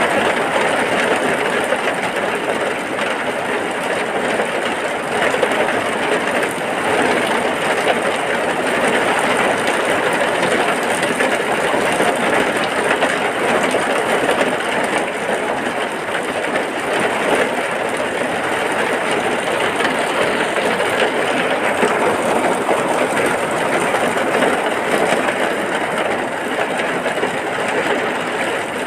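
Heavy rain falling as a steady, even hiss with no breaks.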